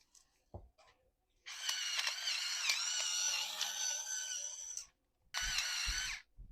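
Battery-powered electric salt and pepper grinder's small geared motor running: a whine whose pitch wavers, lasting about three seconds, then again briefly near the end. A light knock of handling comes before it.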